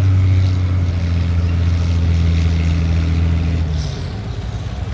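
Tractor engine running at a steady speed with a low, even hum. The hum drops away about four seconds in.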